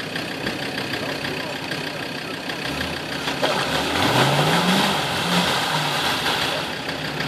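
Classic Range Rover's engine idling, then revving up about three and a half seconds in, its pitch rising, as the truck drops nose-first into a pit of muddy water. Water and mud churn loudly around it for a couple of seconds before the engine settles back.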